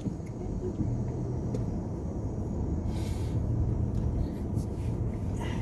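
Steady low rumble of a car idling, heard from inside the cabin, with a brief hiss about three seconds in.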